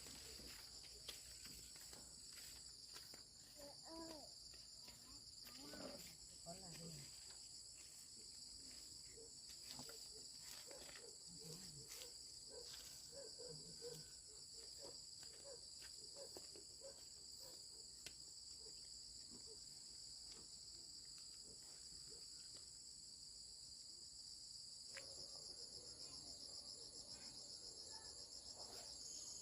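A chorus of insects singing steadily in a high pitch, with a second, higher pulsing insect song joining about 25 seconds in. Faint scattered ticks and rustles lie underneath.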